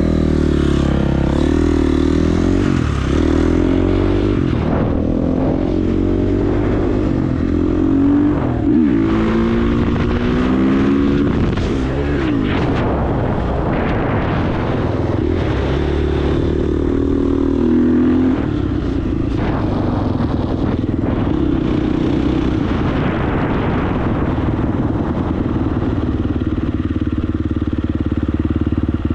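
KTM 350 dirt bike's single-cylinder four-stroke engine under way, its pitch rising and falling repeatedly as the throttle is worked, then settling into a steadier note for about the last ten seconds.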